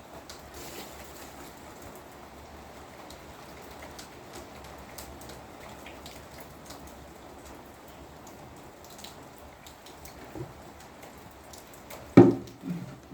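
Steady rain falling, an even hiss with many small drop ticks. Near the end there is a sudden loud, short pitched sound.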